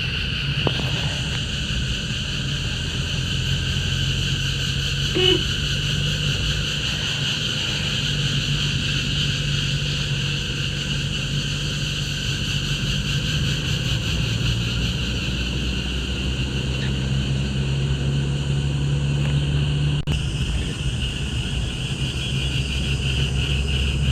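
Vehicle engine and road noise while driving, under a steady high-pitched drone of forest insects.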